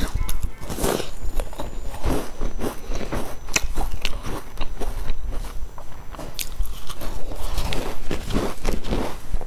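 Close-miked biting and chewing of a sesame-topped pastry: crunching with many small crackles and clicks, in uneven bursts.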